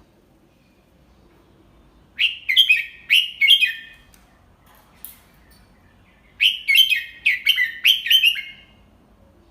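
Red-whiskered bulbul singing two short, clear song phrases of quick chirping notes, a few seconds apart.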